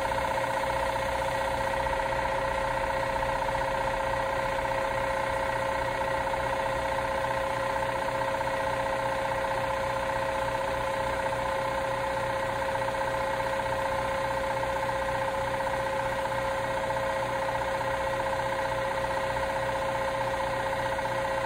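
Industrial Gold LH1/LH2 series air compressor pump, 2–5 hp on a 60-gallon tank, running steadily at about 77 dBA at 8 feet. It is a constant mechanical running sound with a steady hum and an even low pulsing.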